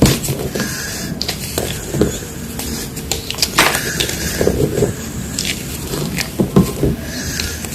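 Gym chalk being crunched up close: a run of irregular crisp crunches and crackles.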